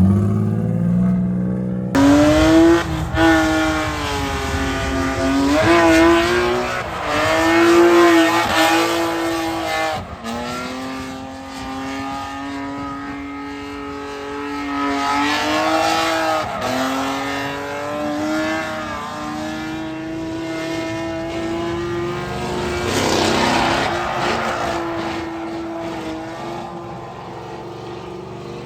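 Drift car's engine held at high revs, its pitch rising and falling as the throttle is worked, with several sudden short dips in revs.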